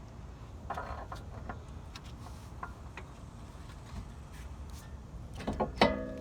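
Scattered light metallic clicks and knocks as the hub is worked onto the CV axle's splined shaft, with a louder ringing clank near the end.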